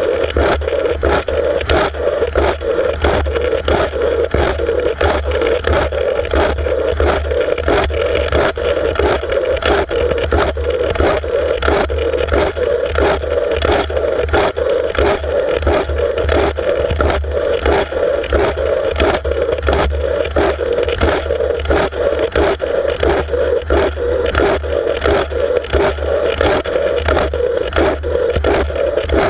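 Freight train rolling directly over a camera lying between the rails: a loud, steady rumble and scrape of steel wheels on the rails, with sharp clicks about three a second.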